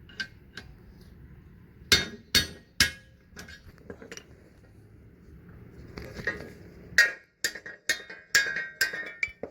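Hammer blows on metal, driving an old bushing out of a leaf spring eye. Three blows come about two seconds in, and a quicker run of about seven comes near the end.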